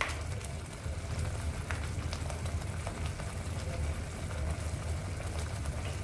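Thick onion-tomato masala paste bubbling in a kadai, with scattered soft pops and spatters over a steady low hum.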